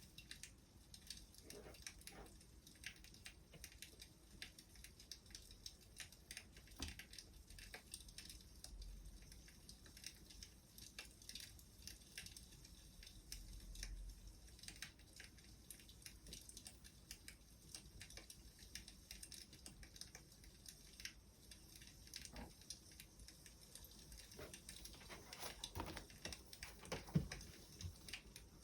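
Wood fire crackling softly, with irregular small pops and snaps and a few louder cracks near the end.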